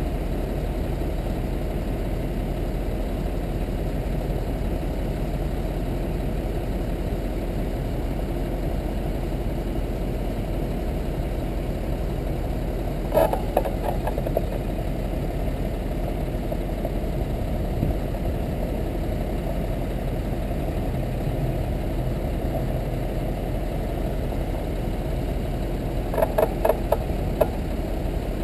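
Steady low rumble of wind and road noise from riding a bicycle, with two brief bursts of clattering clicks, about halfway through and near the end.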